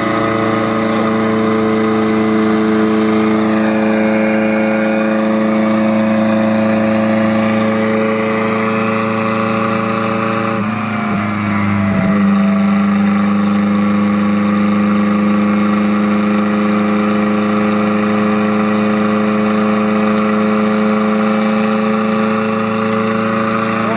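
Lancia Delta HF Turbo's turbocharged four-cylinder engine running at a steady, unchanging speed on a chassis dyno. About eleven seconds in the sound dips and breaks briefly, then resumes at the same pitch.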